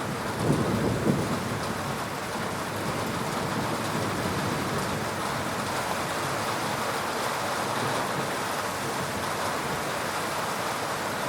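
Heavy rain falling steadily in a thunderstorm, with a brief low rumble of thunder peaking twice about half a second to a second in.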